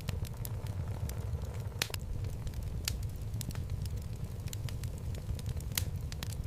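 Wood fire burning in a fireplace: a steady low rumble of flames with irregular sharp crackles and pops from the burning logs, two of them louder, about two seconds in and near the end.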